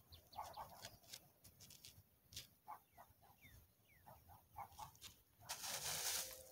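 Faint, scattered short calls of birds or fowl, some sliding downward, with a few light clicks. A brief rustle about five and a half seconds in is the loudest sound.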